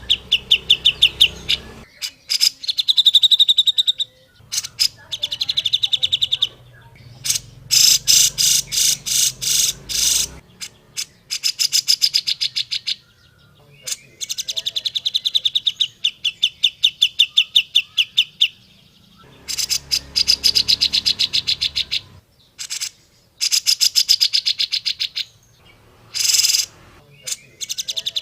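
Cucak jenggot (grey-cheeked bulbul) singing: phrases of rapid, evenly repeated notes, each one to three seconds long, with short pauses between them and some sharper, harsher chattering runs.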